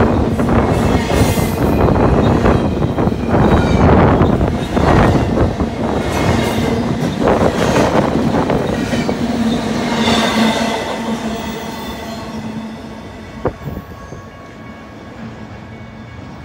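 BNSF double-stack intermodal freight train passing close by: steady rumble and clatter of steel wheels on rail, with a low humming tone, fading away over the last several seconds as the end of the train passes and recedes. A single sharp knock about thirteen seconds in.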